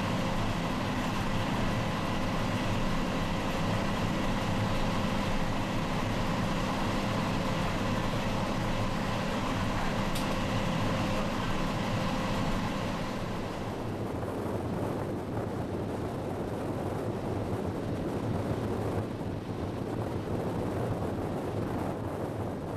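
Passenger train running at speed: a steady running hum with several held tones from the train itself. About 14 seconds in it changes to a rush of wind and wheel rumble heard at an open side window of the moving train.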